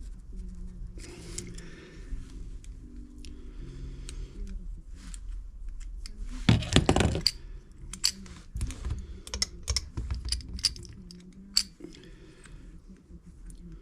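Small metal carburetor parts clicking and tapping as they are handled, with a louder clatter about six and a half seconds in.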